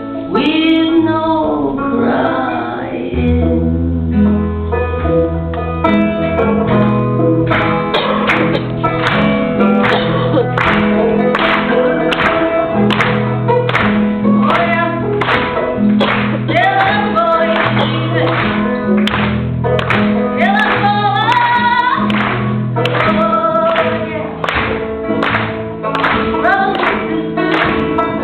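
Singing over a strummed guitar with a steady strum rhythm and a bass line.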